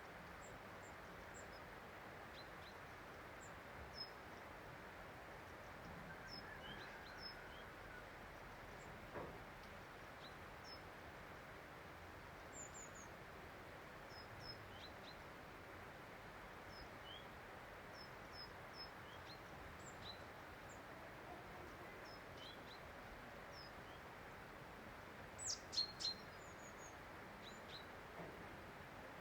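Small birds chirping sporadically, short high calls, over a faint steady outdoor hiss, with a brief louder cluster of chirps near the end.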